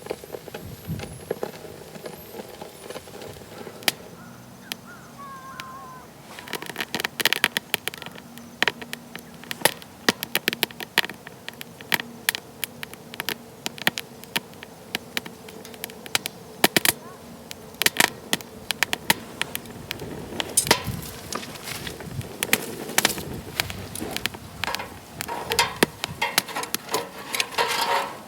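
Wood fire crackling and popping in a fire pit: sharp snaps over a low hiss, sparse at first and coming thick and fast from about six seconds in.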